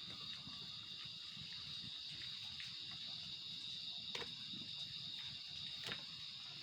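Quiet outdoor nature ambience: a steady high insect drone, with a few faint snaps about four and six seconds in.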